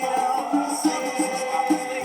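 Cavaquinho playing a pagode tune in quick plucked notes, with other music sounding along with it.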